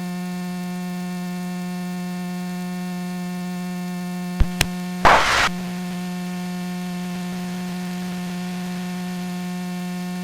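Steady electrical hum in the aircraft intercom audio, one unchanging pitch with overtones. Two sharp clicks come about halfway through, then a short burst of hiss.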